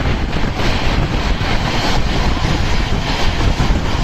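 Steady rumble and rush of air from the Coromandel Superfast Express running at speed, heard on board.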